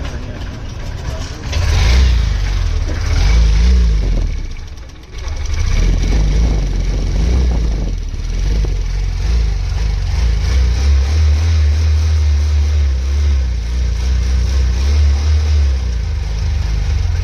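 Honda 125 motorcycle engine starting and running with blips of the throttle after its timing chain replacement. It picks up about a second and a half in, drops away sharply around five seconds, then runs again with the revs rising and falling.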